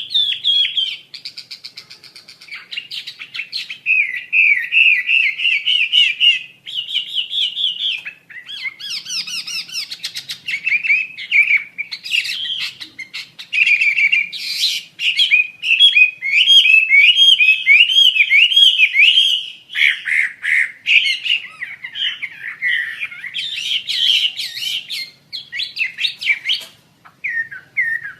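Wambi Asia songbird singing a long, varied song of rapid chirps, trills and sweeping warbled notes, broken by short pauses.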